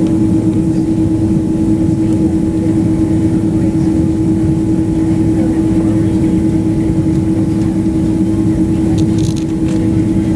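Airliner cabin noise: a loud, steady engine and airflow drone with a constant low hum running through it.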